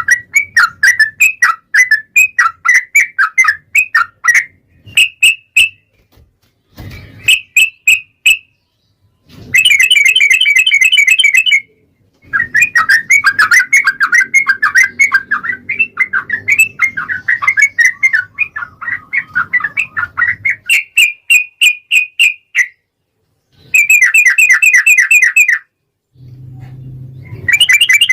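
Yellow-vented bulbul (trucukan) singing long, fast runs of bubbly, chattering notes in bursts of several seconds, broken by short pauses.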